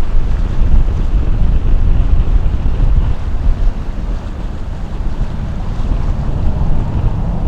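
Strong gusty wind buffeting the microphone: a loud, uneven low rumble that rises and falls from moment to moment.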